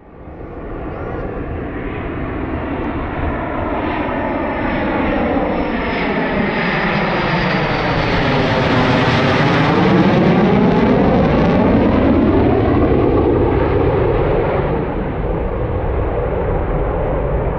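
Aircraft flying low past, the engine noise swelling to its loudest about ten seconds in and easing off only slightly afterwards.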